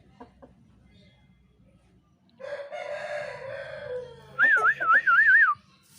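Aseel rooster crowing, one crow of about two seconds starting a little before the middle. Then a loud warbling whistle, its pitch wobbling up and down four times, for about a second near the end.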